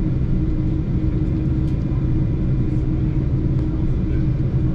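Steady low rumble with a constant hum: airliner cabin noise aboard a Boeing 747-8 on the ground.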